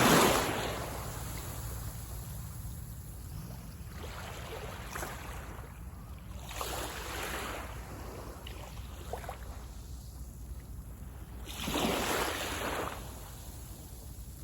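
Small waves breaking on a sandy beach: a loud wash at the start, lighter ones around five and seven seconds, and another swell breaking near twelve seconds, over a steady low wind rumble on the microphone.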